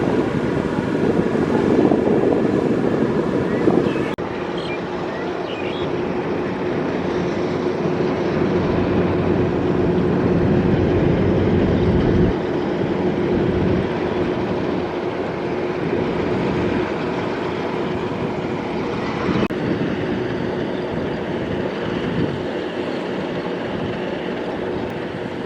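Kubota DC-70 Plus combine harvester running steadily under load, its engine and threshing machinery giving a continuous mechanical drone with a held whining tone.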